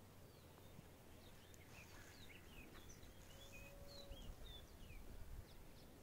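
Faint birds chirping: many short, high calls and whistles over a low steady rumble.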